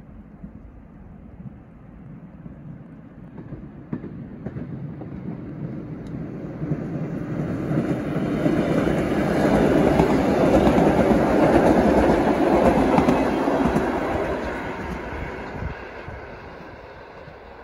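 A vehicle passing by: its noise builds over several seconds, is loudest midway and fades away near the end.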